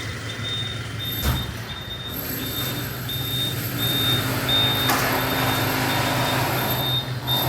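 A vehicle's reversing beeper beeping steadily, a little under twice a second, over an idling engine's low hum that grows louder near the end. Two short knocks come about a second in and near the middle.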